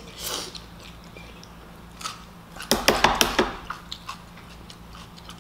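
Close-up eating sounds of chewy jjolmyeon noodles: a short slurp as a mouthful is drawn in, then chewing, with a loud cluster of wet mouth smacks and clicks about three seconds in.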